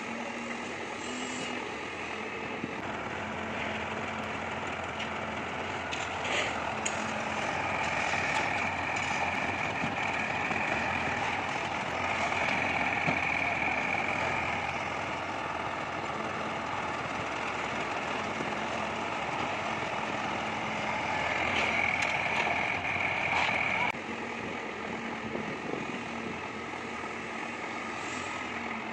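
Mahindra 575 DI tractor's four-cylinder diesel engine running steadily, with a higher whine that rises in and fades out three times.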